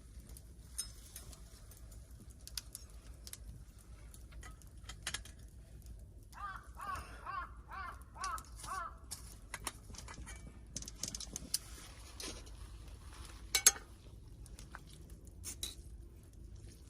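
Scattered small clicks and knocks, like handled gear, with a louder double click about two-thirds of the way in. Around the middle, a bird calls about six times in quick succession.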